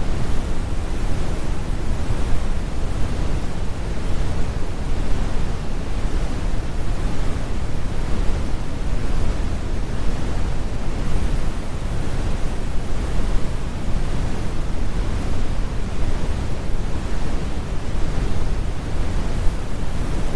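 Computer-generated brown noise: a steady, deep rumbling hiss with most of its weight in the low end and the high frequencies rolled off, like an airplane cabin or distant surf, with no changes.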